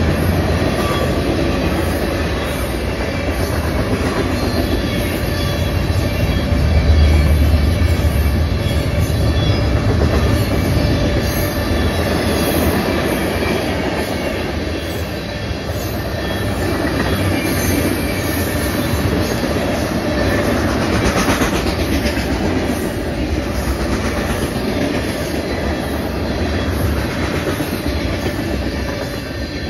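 Freight train cars rolling past close by: a continuous rumble of steel wheels on rail, with wheels clacking over the rail joints.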